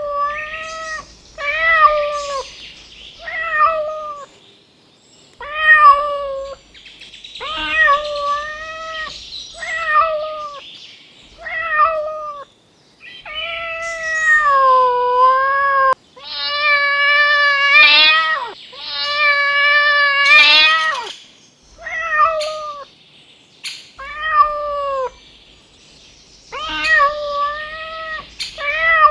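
Domestic cat meowing over and over: a run of short meows, with a couple of longer, drawn-out calls about two-thirds of the way through.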